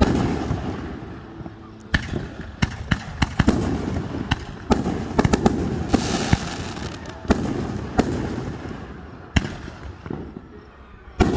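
Aerial fireworks going off: a heavy bang at the start, then a quick run of sharp cracks and reports through the middle with rumble between, and another loud bang near the end.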